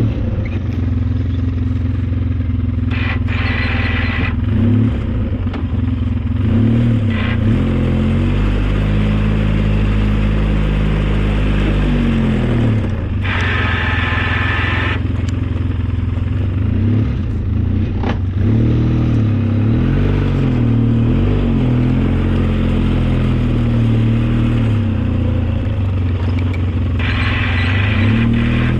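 Engine of an old snowplow vehicle running under load while plowing, its pitch rising and falling with the throttle. Three times, for a second or two, a harsher, higher noise rises over the engine.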